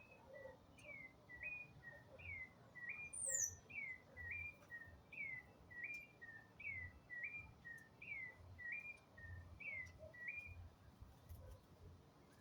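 A songbird singing faintly, repeating a short phrase of a falling note and a quick upward-stepping note about once a second, then falling silent near the end. About three seconds in, a second bird gives one thin, very high falling note.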